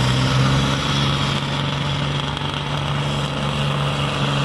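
Iveco Supersport pulling truck's diesel engine running at steady revs, a loud even drone that neither rises nor falls.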